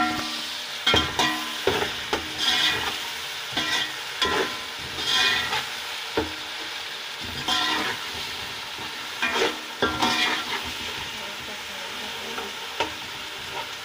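Onion, tomato and garlic-ginger masala frying in oil in an aluminium pot with a steady sizzle. A spoon stirs and scrapes against the pot about once a second. This is the early frying of the tomato base, before the dry spices go in.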